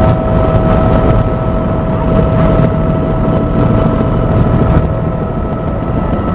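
Helicopter in flight: steady, loud rotor and engine noise with a constant high whine over a dense low rumble.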